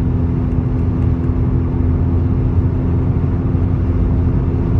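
Exhaust drone heard inside a car's cabin at steady highway cruise around 2,300–2,400 rpm: a constant low hum over road rumble. It comes from an exhaust with a downpipe, resonators and a TCR muffler, and this rpm band is where it drones.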